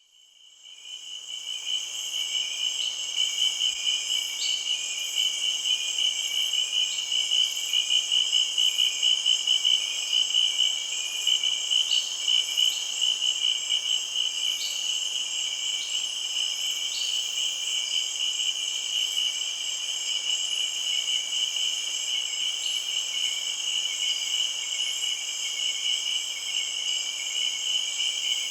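Insects trilling in a steady, high-pitched, pulsing chorus that fades in over the first two seconds.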